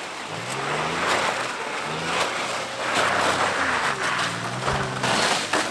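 Off-road pickup truck's engine revving up and back down about once a second, with a rushing hiss of tyres churning through snow.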